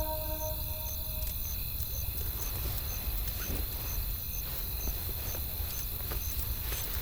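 Campfire crackling with scattered sharp pops over a steady low rumble of wind, with a faint high chirp repeating about twice a second.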